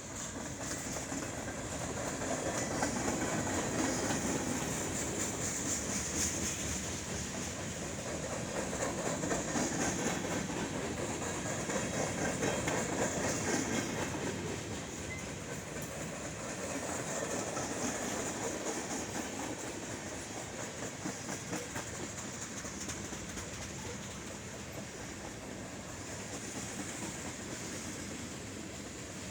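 CSX freight train rolling past, its wheels clicking steadily over the rail joints, the sound swelling and easing gently as the cars go by.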